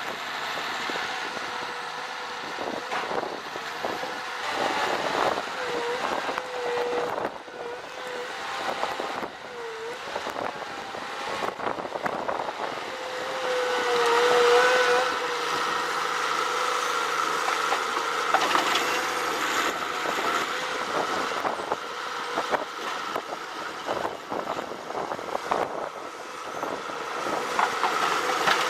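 Heavy tree-felling machinery running, with a whining tone that wavers and bends in pitch and scattered knocks and clatter.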